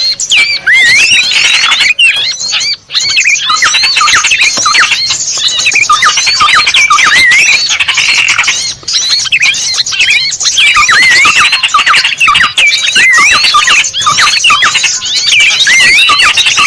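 Many small birds chirping and twittering at once in a dense, unbroken chorus of quick high notes that rise and fall. It is a loud bird-lure recording played to draw small birds in.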